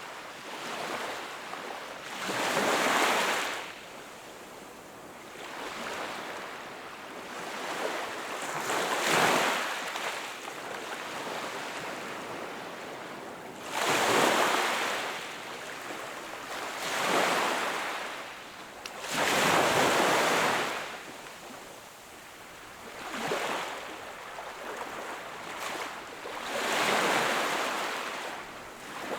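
Small ocean waves breaking and washing on the shore, one surge every few seconds, each swelling and then falling back to a softer wash.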